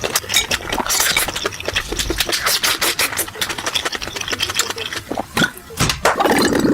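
Close-miked eating sounds: chewing and wet mouth smacks, a dense run of quick irregular clicks and crackles.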